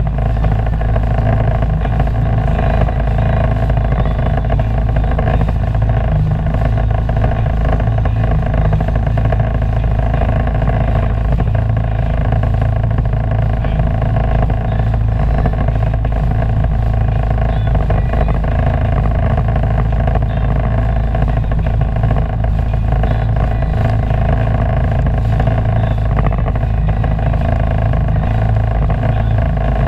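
Sea-Doo personal watercraft engine running at a steady speed: a constant drone that holds one pitch throughout.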